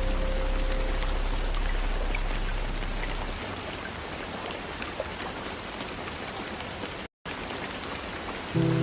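Steady soft rain on a window, a continuous hiss flecked with small drop ticks. Low sustained ambient music notes fade out over the first three seconds, the sound cuts out completely for an instant about seven seconds in, and low sustained notes return just at the end.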